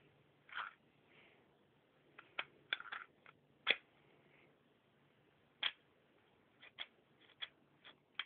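Sharp plastic clicks of a Lego Glock 17 replica being handled and worked, about a dozen at irregular intervals, some in quick pairs, the loudest a little under four seconds in.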